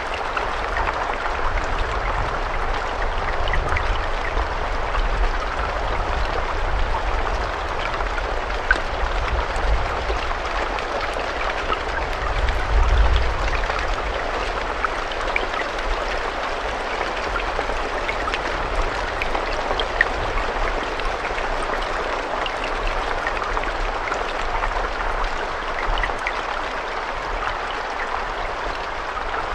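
Steady rain with a constant hiss and scattered individual drops ticking, over a low rumble that swells briefly about halfway through.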